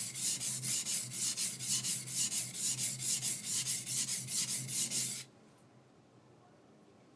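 High-speed steel skiving knife rubbed back and forth on a wet 220-grit coarse water stone, about four quick scraping strokes a second, flattening the back of the blade. The strokes stop abruptly about five seconds in.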